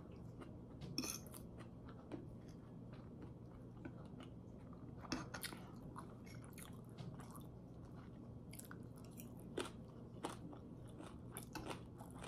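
A person chewing a mouthful of pad thai noodles close to the microphone, with irregular soft clicks and smacks over a faint steady hum.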